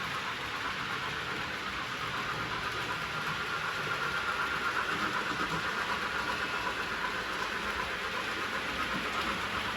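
Model train running on the layout's track: a steady electric motor whine over wheel and track rumble, growing a little louder about halfway through as it comes closer.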